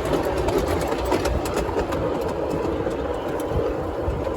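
Train running along the rails: a steady rumble with faint, irregular clicks from the track.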